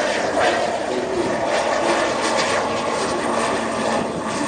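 Fixed-wing aircraft engine running steadily during a display flight: a loud, even drone.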